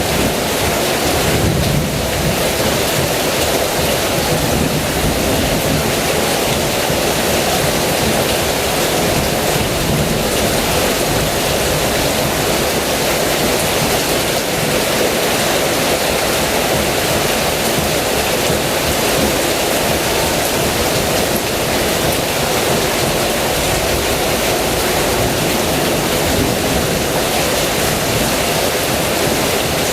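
Heavy rain falling steadily, a dense even hiss with no break or clear thunderclap.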